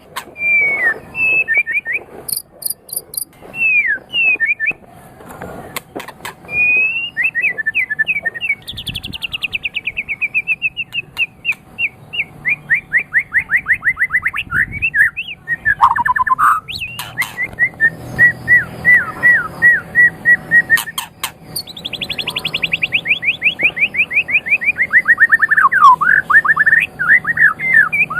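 White-rumped shama singing a long, varied song: fast runs of whistled notes sliding down in pitch, strings of evenly repeated notes, and a few sharp clicks.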